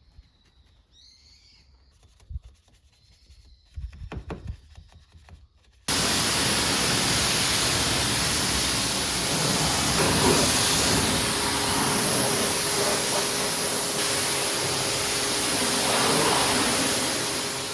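A few faint knocks, then about six seconds in a high-pressure washer starts spraying water onto the car with a loud, steady hiss, which cuts off suddenly near the end.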